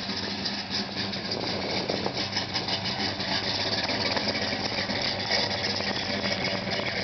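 Dodge 440 big-block V8 with dual four-barrel carburettors idling steadily.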